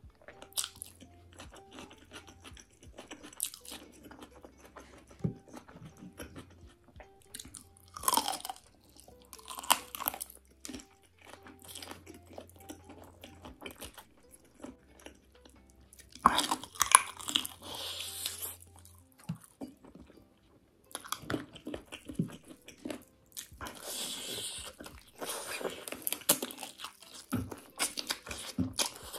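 Close-miked eating: crisp crunching bites of raw onion and wet chewing of chicken feet and curry-soaked rice, coming in louder bursts several times. Faint background music runs underneath for the first two-thirds and then stops.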